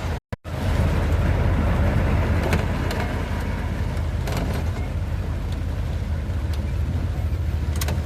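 1992 Dodge B250 van driving, heard from inside the cab: a steady low engine and road hum with hiss above it. The sound drops out briefly just after the start.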